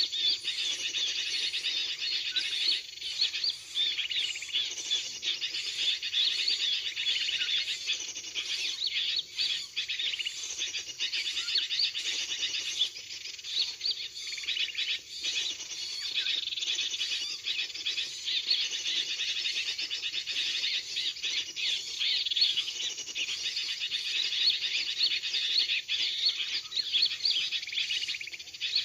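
Dense, unbroken bird chirping and twittering: a bird-trapping lure recording of sooty-headed bulbul (kutilang) chatter mixed with small-bird calls, played to draw birds in.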